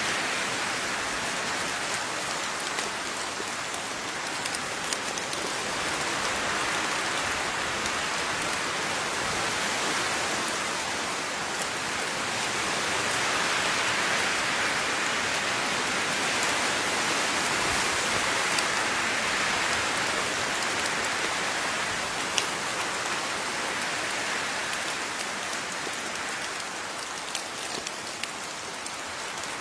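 Steady rain falling on a surface, with scattered individual drop taps, slowly swelling and easing in intensity.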